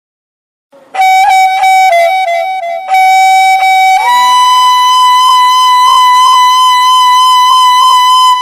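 Solo wind instrument playing a slow melody, starting about a second in: short notes around one pitch, then a step up to a long held higher note with brief ornaments.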